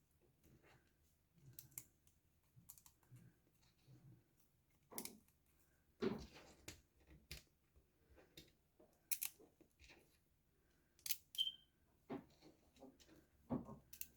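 Plastic building-block pieces clicking as they are handled and pressed together, in faint, scattered sharp clicks at uneven intervals.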